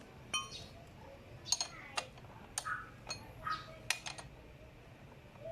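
Metal hand tools clinking and tapping against the motorcycle's rear-wheel hardware as it is loosened for a drive-chain adjustment: a string of sharp clinks, one ringing briefly under a second in.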